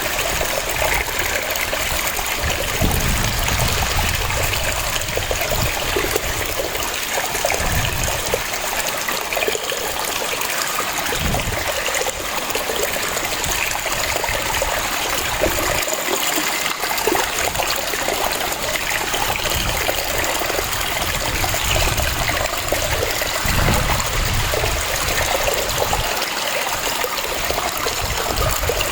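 Waterfall: a steady rush of falling and splashing water, with a low rumble that swells and eases every few seconds.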